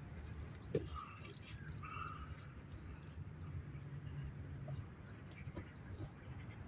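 Faint outdoor ambience with a few short bird chirps in the first couple of seconds and a scattering of small clicks.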